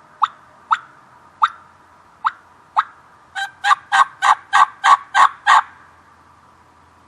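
Turkey hen calls from a hunter's turkey call: a few single sharp clucks about half a second apart, then a quick series of eight louder, raspy yelps about halfway through, used to call in a longbeard gobbler.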